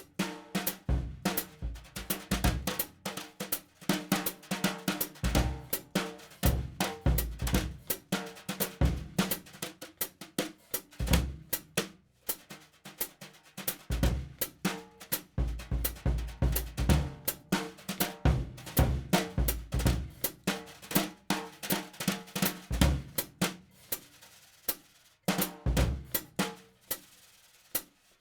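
Drum-kit music: a fast beat of kick drum, snare, hi-hat and cymbals.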